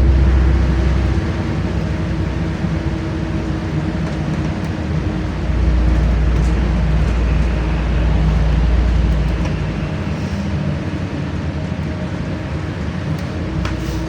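Inside a LiAZ-5292 low-floor city bus under way: engine and drivetrain running with road and tyre noise. The deep rumble swells twice, at the start and again mid-way, then eases.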